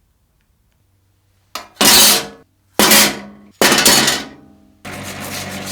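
A workshop tool: three short, loud blasts of noise, each starting sharply and fading, then a steady run begins near the end.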